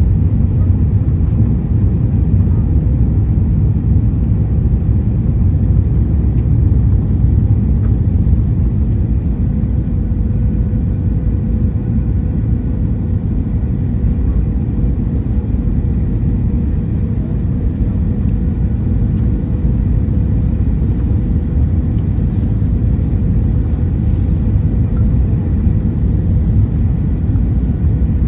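Steady low rumble heard from inside a moving vehicle, with a faint steady hum above it.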